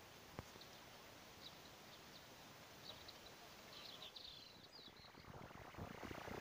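Faint outdoor ambience, near silent, with scattered short bird chirps. A single sharp click comes just after the start, and a brief rustling noise swells near the end.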